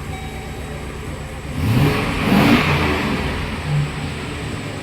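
Chevrolet engine running after a new battery cable was fitted. It swells in a rev about one and a half seconds in, then settles back to a steady run. It is running normally with the bad battery cable replaced, the fault that had caused the no-start and the erratic gauges.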